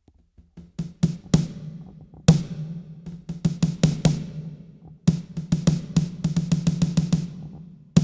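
Roland VAD503 electronic drum kit's snare voice, Plug Snare 5 layered with a Fat Box snare, played as a run of single hits and quick ghost-note flurries. Each hit has a sharp crack and a low ring.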